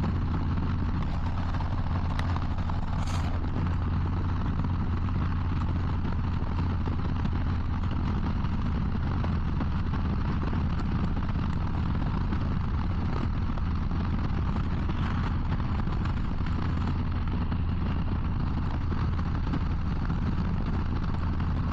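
Harley-Davidson Low Rider ST's Milwaukee-Eight 117 V-twin running at steady highway speed, with a steady low drone and constant wind and road rush on the helmet microphone.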